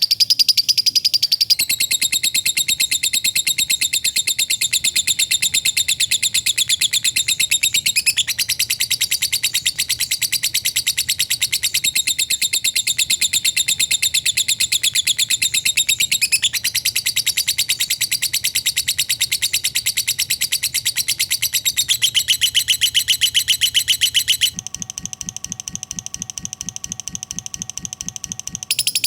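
Lovebird ngekek: a long, unbroken run of very fast, high-pitched chattering, the rapid cackling song lovebird keepers call 'ngekek panjang'. It shifts in pitch a few times, turns quieter with a different, lower pattern near the end, then picks up again.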